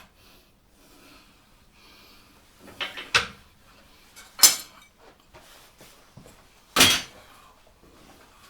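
Three short metallic clanks and clatters a second or two apart, from metal tooling being handled and adjusted on a wood lathe, the last a little longer.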